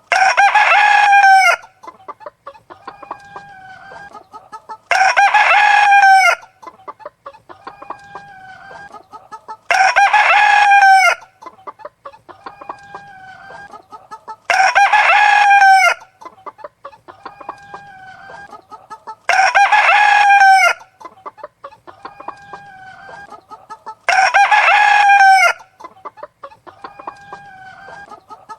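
A rooster crowing six times at even intervals of about five seconds, each crow about a second and a half long and the same each time. Softer chicken calls come in between the crows.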